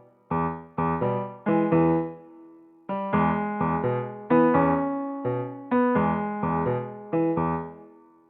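Background music: an electric piano playing short struck chords, with a brief gap about two seconds in and the last chord fading out near the end.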